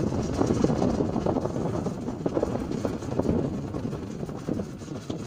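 Motorcycle engine and road noise heard while riding, an uneven rumble that grows quieter near the end.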